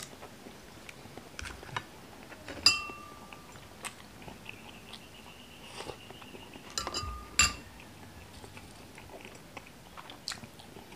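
Close-up eating sounds of balot: chewing with small clicks and crackles of duck eggshell being picked at. Twice, about a third of the way in and again past two-thirds, a metal spoon clinks against a dish and rings briefly; these are the loudest sounds.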